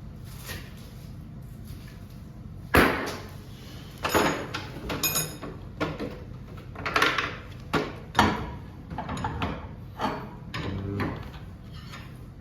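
Irregular metal clanks and knocks of hand tools and bolts on a garage door torsion spring assembly as the spring's bolts are taken out, with one sharp knock about three seconds in and a brief metallic ringing a little after.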